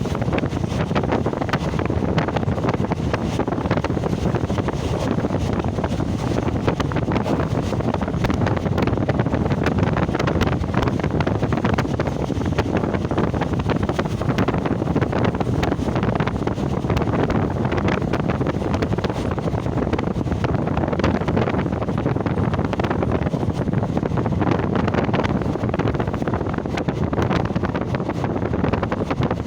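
Steady rushing wind buffeting the microphone over the running noise of a moving train.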